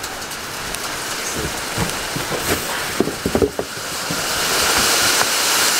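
Rain falling as a steady hiss that grows louder about four seconds in, with a few short knocks around the three-second mark.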